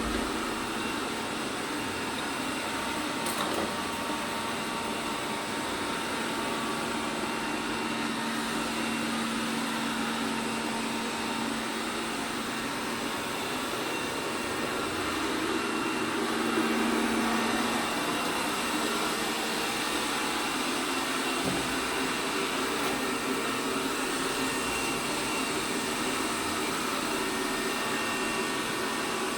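ELARI SmartBot Lite SBT-002A robot vacuum cleaner running, a steady whir of its suction motor and brushes with a constant low hum.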